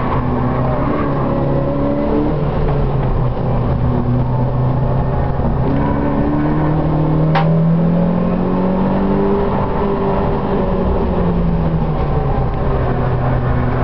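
Citroën Saxo's four-cylinder engine heard from inside the cabin on a fast lap, revving up and dropping back repeatedly as it works through the gears and eases off for corners. A short sharp tick comes about seven seconds in.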